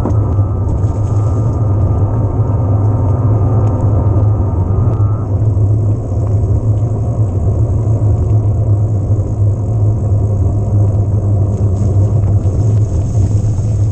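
Steady wind buffeting and rumble on the camera microphone while riding an electric mountain bike. The faint whine of the Yamaha PW-X mid-drive motor stops about five seconds in.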